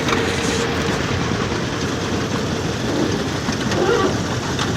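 An old engine running steadily, heard close up, with a continuous mechanical rumble.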